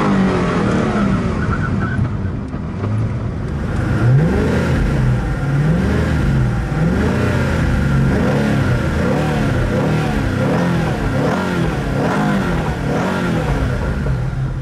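Koenigsegg One:1's twin-turbo V8 heard from inside the cabin, running under throttle while driving. After about three and a half seconds it is revved repeatedly in neutral while standing still, in quick blips that rise and fall roughly once a second.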